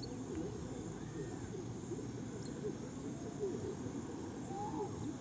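Caged songbirds calling faintly, a few short curved chirps about a second in and again near the end, over a busy low outdoor background.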